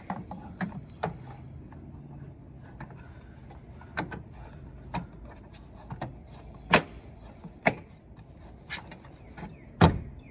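Scattered sharp clicks and knocks of plastic trim clips and body-panel parts being handled and pressed into place on a pickup truck's wheel-well panel, the loudest near the middle and near the end.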